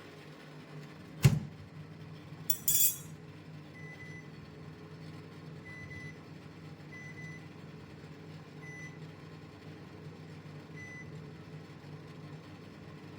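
Kitchen utensils: a sharp knock, then a brief bright clink about a second later, over a steady low hum. Faint short high tones recur a few times afterwards.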